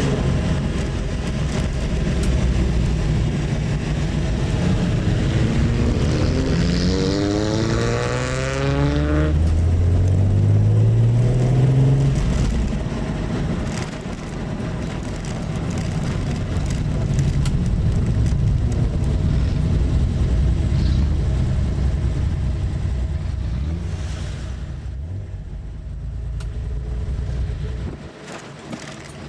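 Carbureted straight-six of a 1970s Nissan Skyline (Ken-Mary) running under way. Its intake and exhaust note rises in pitch twice as it accelerates through the gears about six to twelve seconds in, then settles to a steady cruise and eases off near the end.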